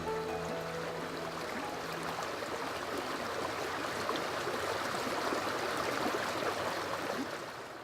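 Running water, a steady, gurgling stream. Soft background music fades out over the first two seconds or so.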